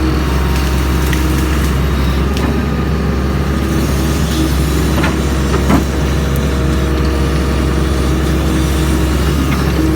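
Doosan DX140 excavator's diesel engine running steadily under load, with a short knock a little past halfway.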